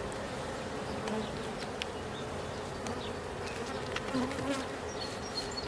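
Many honey bees buzzing steadily around an open hive, a dense even hum, with a few faint clicks.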